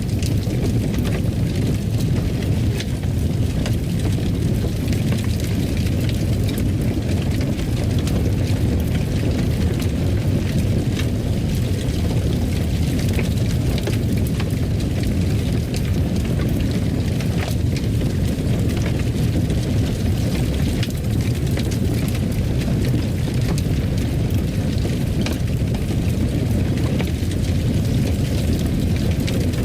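Fireplace fire crackling: a steady low rumble with scattered sharp pops and crackles.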